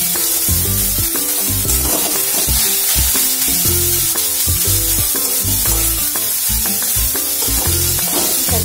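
Mashed banana stem frying in oil in a kadai: a steady sizzle with the scrape of a spatula stirring it. Background music with steadily stepping bass notes plays over it.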